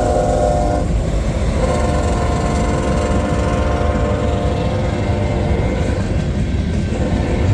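Freight train passing close by: the diesel locomotives' air horn sounds at the start and cuts off about a second in, leaving the heavy rumble of the locomotives and freight cars rolling past on the rails.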